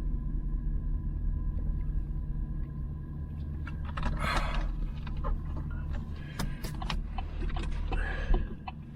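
Steady low engine rumble, with a short hiss about four seconds in and scattered clicks and rustling near the end.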